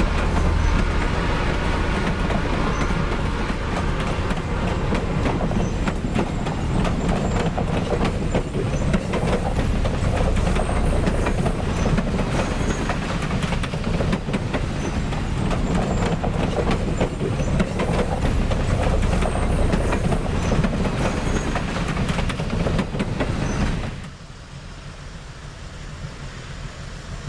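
Southern Railway No. 4501, a Mikado steam locomotive, running with its passenger train: a heavy, steady rumble with clattering wheels on the rails. The sound drops off suddenly near the end.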